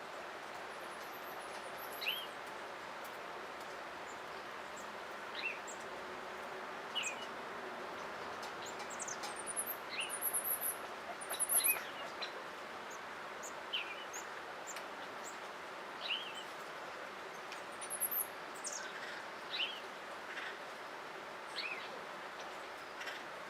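Wild birds calling in oak woodland: short chirps every second or two, with a cluster of high, thin trills about ten to twelve seconds in, over a steady background hiss.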